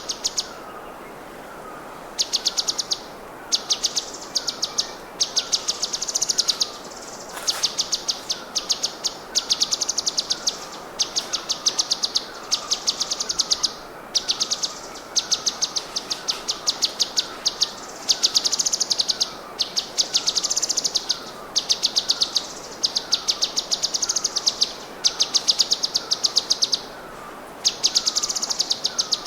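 Masteran recording of songbird calls: rapid, high, buzzy trills in short bursts about every second, over a steady series of lower downslurred notes about twice a second.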